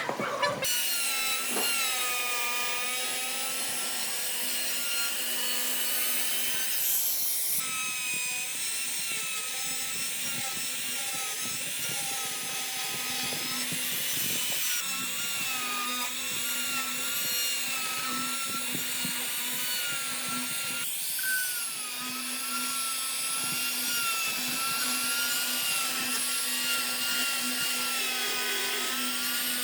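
Electric power tool running on wood, a steady motor whine whose pitch wavers slightly as the load changes, over a scraping, grinding noise.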